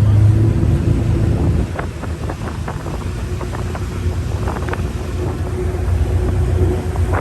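Engine running steadily with a low drone, wind buffeting the microphone, and a few faint knocks in the middle.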